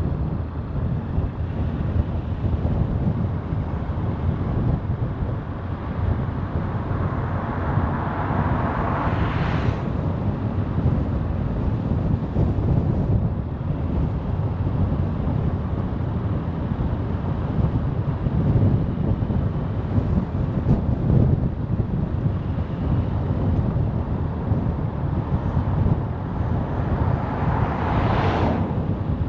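Steady road and wind noise from a car driving at speed. A passing vehicle swishes by twice, a rising whoosh about nine seconds in and again near the end, each cutting off sharply.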